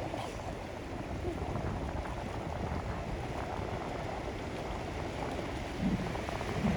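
Steady wind noise on the microphone over the wash of ocean water at the shore.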